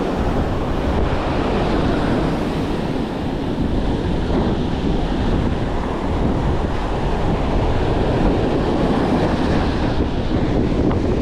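Strong wind buffeting the microphone, a steady low rumble over the wash of surf breaking on the beach.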